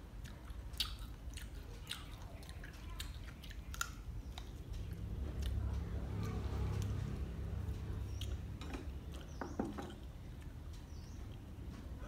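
A person chewing and smacking her lips while eating pieces of stewed snake, with short sharp mouth clicks in the first few seconds. A low rumble swells in the background about five seconds in and fades by eight.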